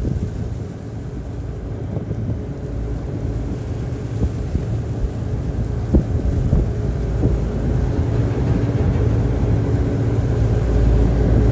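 Ferry's engines running with a steady low hum, mixed with the rush of rough sea and wind buffeting the microphone. A couple of faint knocks.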